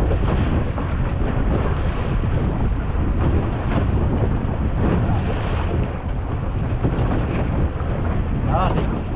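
Small fishing boat's motor running steadily while trolling, with wind buffeting the microphone and sea water rushing and slapping against the hull in rough conditions.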